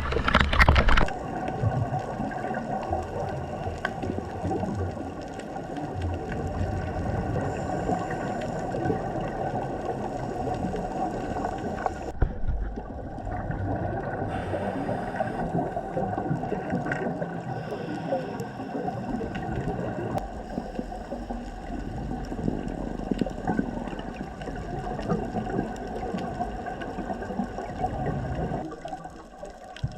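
Underwater sound on a scuba dive: a steady watery hiss with dense faint crackling and a low rumble.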